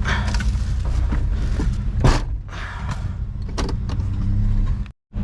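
Vehicle engine idling steadily, with scattered clanks and knocks of junk being handled and one sharp knock about two seconds in.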